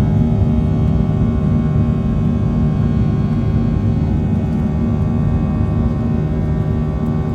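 Boeing 737-700's CFM56-7B jet engines heard from inside the cabin at a window seat: a steady low rumble with a set of steady humming tones above it.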